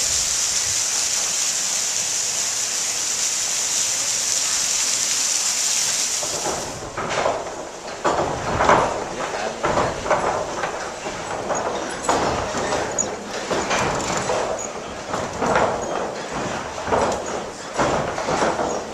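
Steady rushing of water falling on a mill's water wheel; about six and a half seconds in this gives way to the wooden-geared machinery of a water-powered sawmill running, an irregular knocking and clatter roughly once a second.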